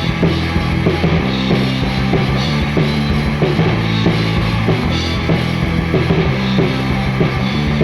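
Instrumental break in a rock song: distorted electric guitar, bass and drum kit playing at a steady loud level with no vocals.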